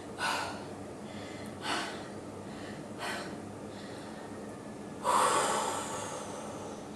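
A woman breathing hard through a held lunge: three short, sharp breaths about a second and a half apart, then a longer, louder exhale about five seconds in.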